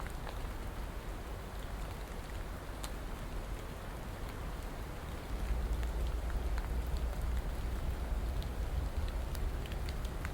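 Steady rain falling, an even hiss with scattered individual drops ticking. A low rumble underneath grows louder about halfway through.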